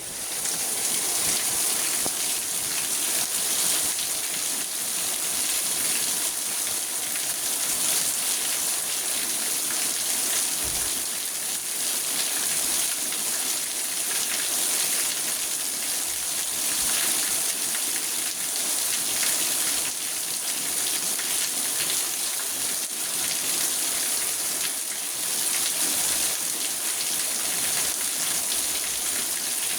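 Steady rain falling on a car's roof and windows, heard from inside the car as a dense, even hiss that swells up in the first second and then holds.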